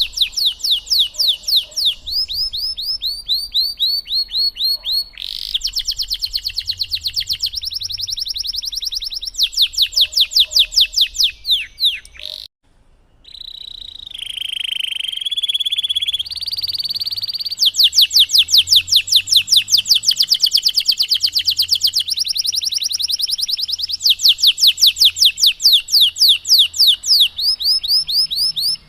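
Domestic canary singing a long rolling song: one fast trill of repeated falling notes after another, each trill changing pace and pitch every few seconds. There is a brief pause about twelve seconds in, then a lower, buzzier phrase before the trills resume.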